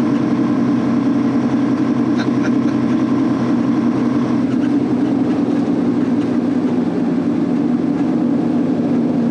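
Semi-truck's diesel engine running steadily with road noise, heard from inside the cab while driving at a constant pace: an even, unchanging drone.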